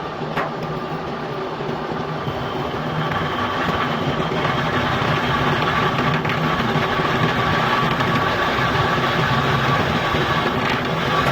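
Metal lathe running steadily while turning a hydraulic jack piston, a continuous machine hum with a steady high tone that comes in about two seconds in and grows slightly louder.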